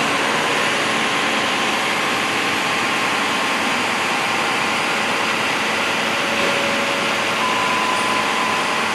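Fire engine running, a steady, even engine and road noise with no siren sweeps.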